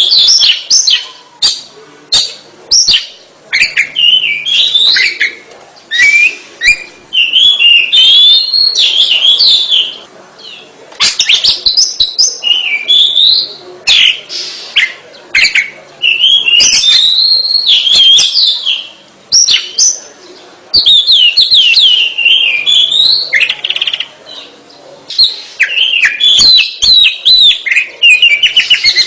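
Oriental magpie-robin (kacer) in full song: rapid, varied runs of whistles and chattering notes, broken by short pauses of about a second.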